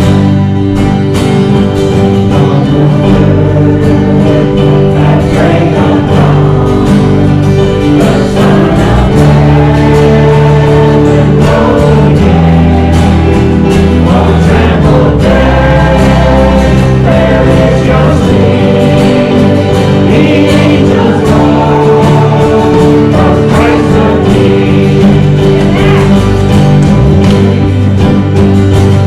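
Worship song: voices singing together over an instrumental accompaniment that includes guitar.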